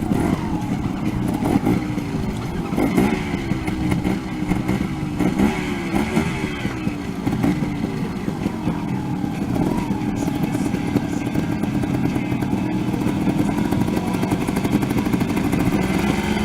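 Two-stroke trials motorcycle engine climbing an obstacle, revved in repeated short throttle blips so its pitch keeps rising and falling, with a sharp rev rising right at the end.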